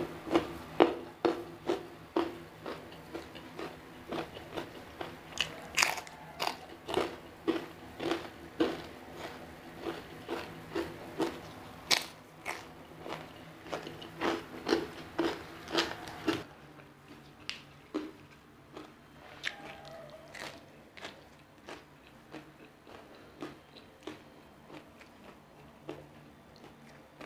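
A person chewing crunchy food with an open, close-up mouth, sharp crunches coming about twice a second, becoming quieter and sparser about two-thirds of the way through.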